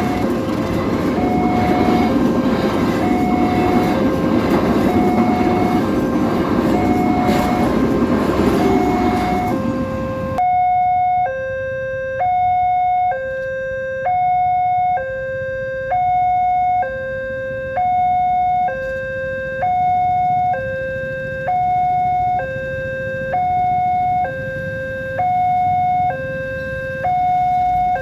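An Indonesian level-crossing warning alarm sounds an electronic two-tone signal, high and low tones alternating in a steady repeating cycle. For the first ten seconds a passing train's loud rumble runs under it. That rumble cuts off abruptly, leaving the alarm alone.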